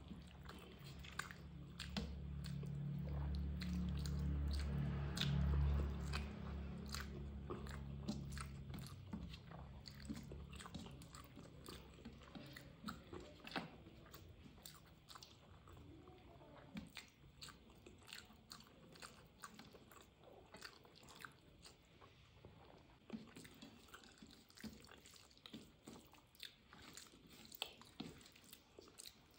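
Close-up chewing and wet mouth clicks of a person eating a mouthful of rice and curry by hand. A low hum swells over the first few seconds and fades away by about ten seconds in.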